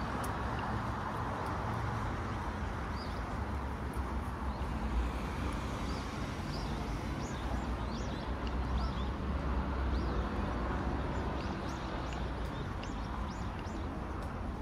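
Small birds chirping, many short high calls that come thicker in the second half, over a steady low outdoor rumble.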